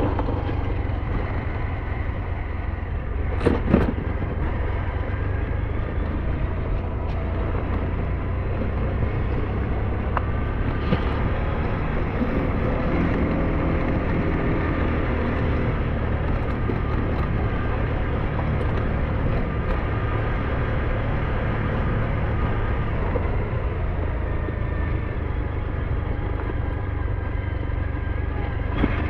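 SYM NH T 200 motorcycle running steadily while being ridden, with a constant low rumble under faint engine tones. A brief clatter about three and a half seconds in.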